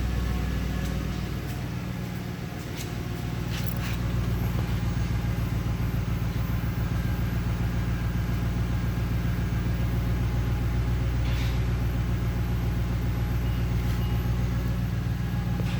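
2011 Lincoln Town Car's 4.6-litre V8 idling steadily, dipping slightly in level about two seconds in.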